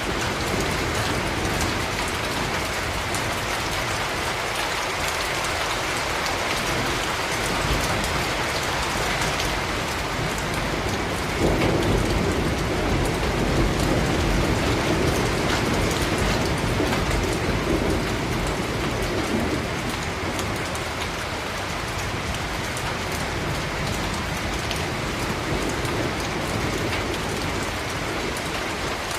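Steady rain falling on a surface, an even hiss of drops. About a third of the way in the rain swells louder and fuller for several seconds, then settles back.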